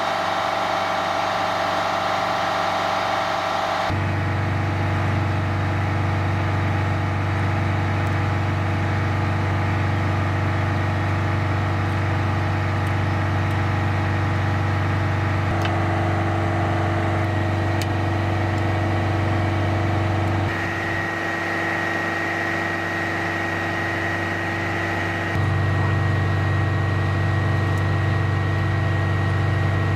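Heavy military truck's diesel engine running steadily at idle, a deep even hum that shifts abruptly in tone a few times.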